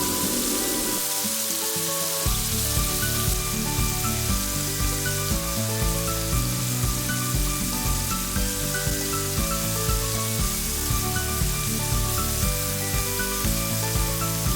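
Chicken fillets sizzling as they fry in oil in a pan. Background music plays over it, and its bass line comes in about two seconds in.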